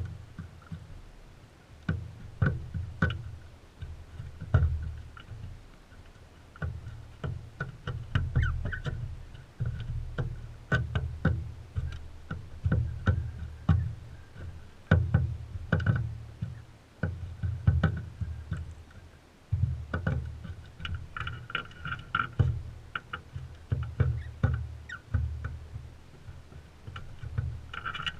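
Crimson rosellas feeding right at the microphone: irregular taps, knocks and scrapes of beaks and feet on the feeder, with a few brief faint calls.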